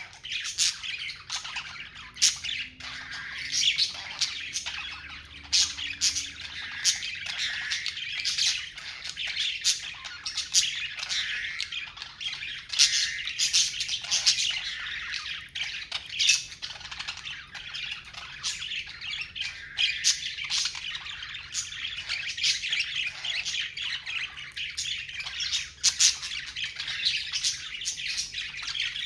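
A flock of budgerigars chattering and squawking continuously, with many sharp short chirps and calls overlapping.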